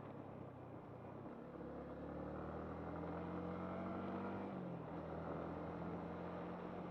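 Yamaha MT-15's single-cylinder engine running while riding, its pitch climbing gradually then dropping suddenly about four and a half seconds in, as at a gear change, then holding steady. There is a steady rush of wind and road noise under it.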